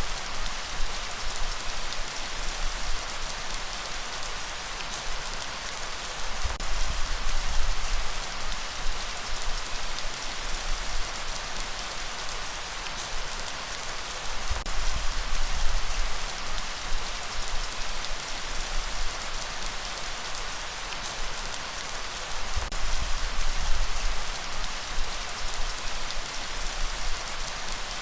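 Steady, dense rainfall pattering on surfaces, with a deep low rumble underneath that swells and fades every several seconds.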